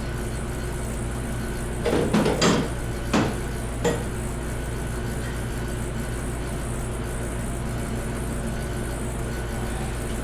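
Metal hand tools clanking against metal: a quick cluster of clanks about two seconds in, then two single knocks, over a steady low hum.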